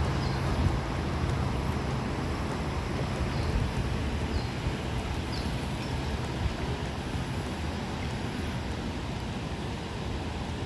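Steady outdoor rumble, heaviest in the low end, with faint short high bird chirps every second or so.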